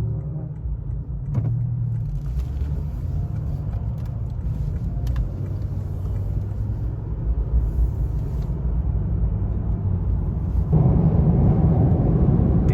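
Car engine and road rumble heard while driving, steady and low, growing louder about eleven seconds in.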